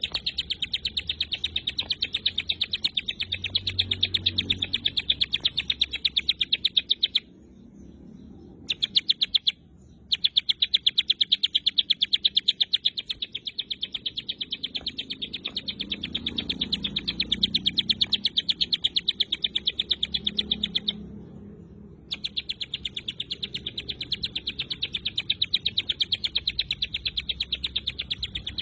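Ciblek gunung giving its rapid-fire 'tembakan' call: a dense run of sharp, high notes repeated many times a second, evenly spaced. The run breaks off briefly about seven seconds in, again near ten seconds, and just after twenty-one seconds, then carries on.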